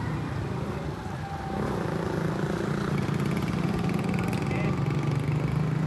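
A motor running steadily, getting louder about a second and a half in.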